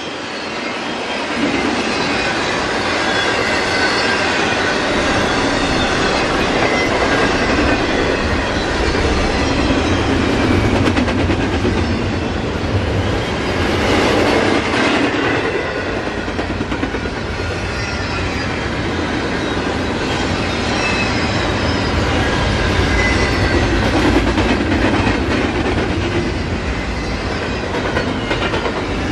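Norfolk Southern intermodal freight train cars rolling steadily past, a continuous rumble with the wheels clacking over the rails.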